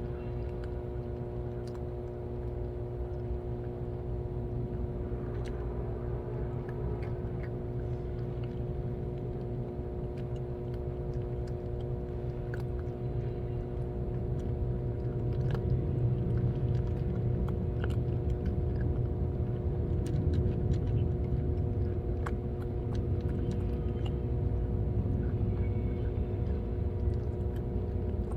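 Cats chewing and crunching food, heard as small irregular crunches and clicks, over a steady machine-like hum and low rumble that grows a little louder about halfway through.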